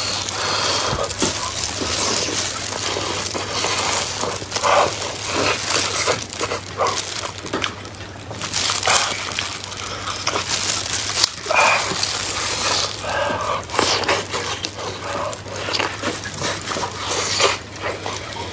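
Close-up chewing and mouth noises of someone eating a soft chocolate lava cake with a runny filling: irregular wet clicks and smacks going on throughout.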